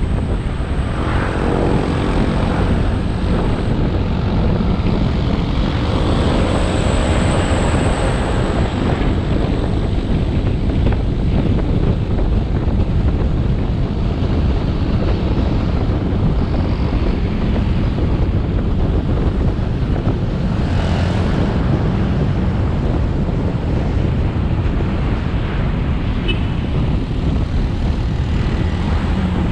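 Motorbike engine running steadily while riding, under the rush of wind and road noise on the helmet-mounted microphone. A brief louder rush comes about two-thirds of the way through.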